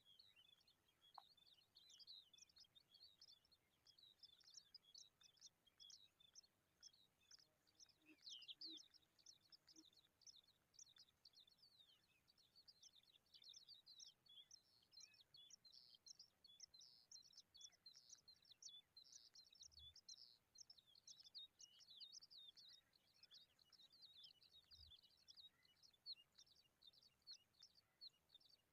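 Faint, continuous high-pitched bird chirping: many rapid short notes, with a couple of soft low thumps in the second half.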